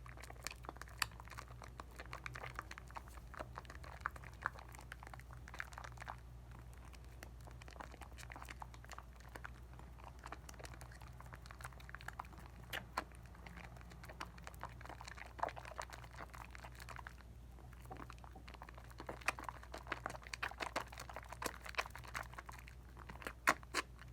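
Hands lathering a bar of Dial coconut soap: soft wet squishing with many small sharp clicks and pops of suds, coming in irregular flurries over a faint steady low hum.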